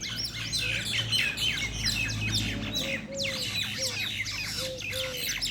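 Several birds chirping and squawking rapidly over one another in a fight. About halfway through comes a run of five short, lower calls.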